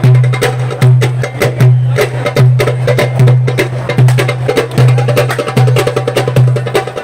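Fast darbuka (goblet drum) rhythm of rapid, crisp finger strokes over a deep bass note that pulses a little more than once a second.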